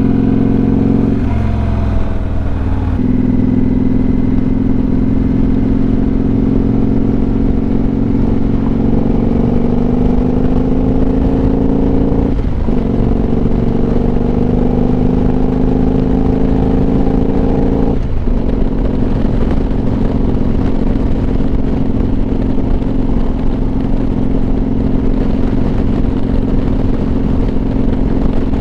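Motorcycle engine accelerating through the gears: its pitch climbs steadily and drops sharply at a shift about 12 seconds in and again about 18 seconds in, then holds steady at cruising speed. A constant low wind rumble on the helmet microphone runs underneath.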